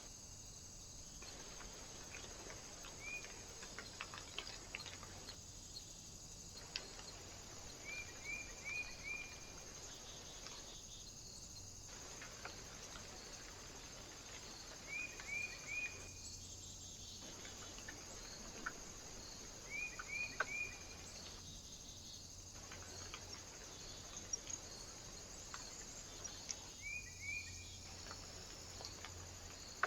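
A small bird calling at a feeder: short chirps in quick groups of two or three, repeated every four or five seconds, over a steady high hiss.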